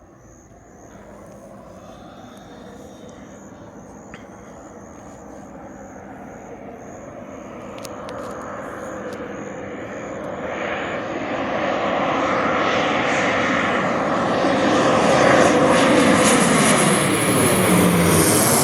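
Military aircraft on its landing approach, its engine noise growing steadily louder as it comes closer, peaking near the end with a sweeping, shifting tone as it passes close by.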